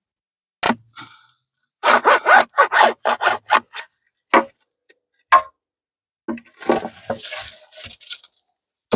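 Wooden beehive parts being worked, wood rubbing and scraping on wood. A rapid run of about eight scraping strokes comes about two seconds in, followed by a few separate knocks and a longer scrape near the end.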